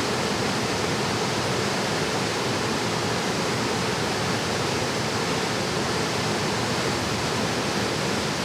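Mountain valley stream, water rushing in a steady, unbroken flow.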